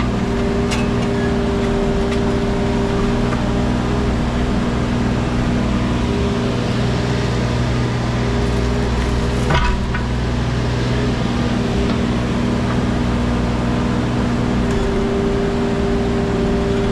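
Wacker Neuson EZ36 mini excavator running steadily under work. A hydraulic whine swells and fades several times over the engine note, and there is a single sharp metallic clank about halfway through.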